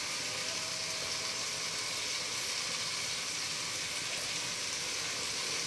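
Chopped tomatoes sizzling steadily in hot oil in a pan as they slowly soften.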